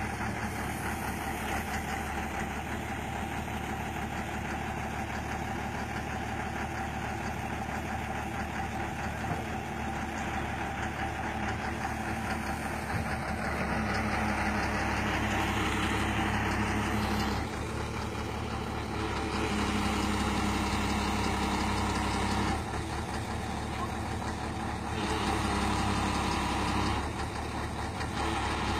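Kobelco excavator's diesel engine running steadily, getting louder for a few seconds at a time, about three times in the second half, then settling back.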